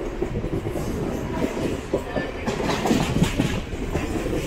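Mumbai suburban EMU local train running, heard on board: a steady rumble of wheels on rails with irregular clattering knocks over the track, busiest about three seconds in.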